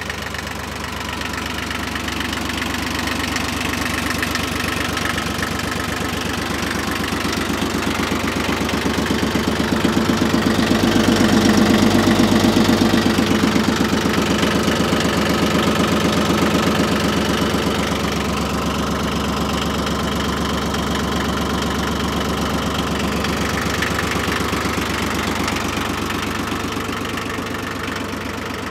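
Yanmar 1610D compact tractor's diesel engine running with a steady rapid beat, growing louder toward the middle and easing off again.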